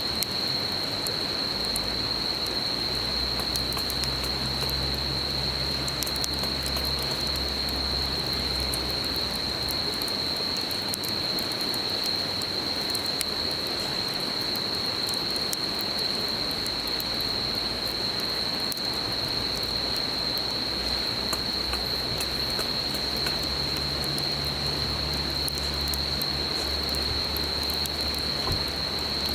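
Campfire crackling with many small pops over the steady murmur of a river, with insects trilling in one continuous high tone. A low hum comes in for the first third and again near the end.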